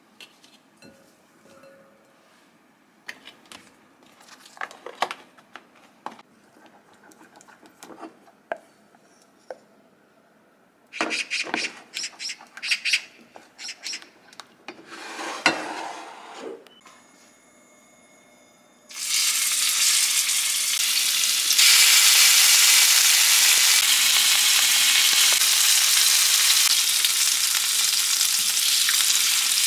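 Soft kitchen handling clicks, a brief clatter, and a wooden spoon stirring in a stainless-steel pot. About two-thirds of the way in, a loud steady sizzle starts: chicken and green-onion skewers frying on a flat griddle pan.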